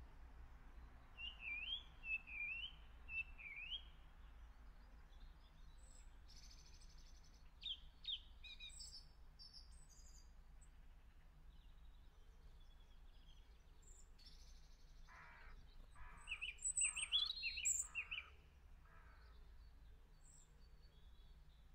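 Wild birds chirping and singing in short bursts, busiest in the first few seconds and again in a louder flurry about two-thirds of the way through, where a run of about five harsh calls sounds among the chirps. A low steady background rumble runs underneath.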